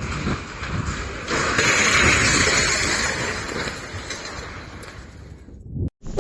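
Road traffic noise, swelling for a couple of seconds as a vehicle drives past.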